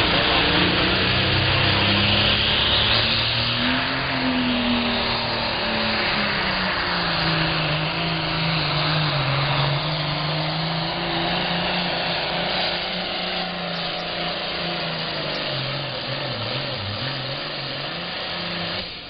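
Super Farm class diesel pulling tractor running at full power under load while dragging the weight-transfer sled. The engine pitch rises about four seconds in, then slowly sags lower as the sled loads it down, and cuts off abruptly at the end.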